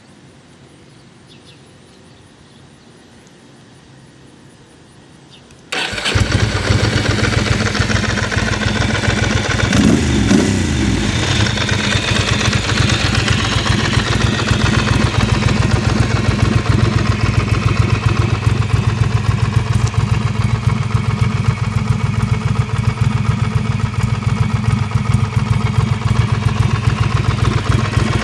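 A 2003 Ducati Monster 620's air-cooled V-twin, breathing through a Termignoni dual exhaust, fires up about six seconds in and then idles loud and steady. A few seconds after it starts, the revs briefly rise and fall.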